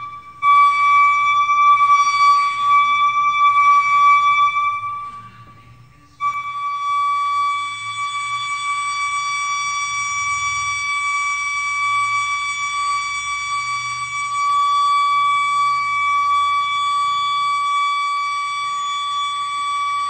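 The unexplained 'Forest Grove sound': a loud, steady, high-pitched tone at one unchanging pitch, rich in overtones, like a whistle or an alarm. It fades out about five seconds in and comes back abruptly about a second later, then holds steady.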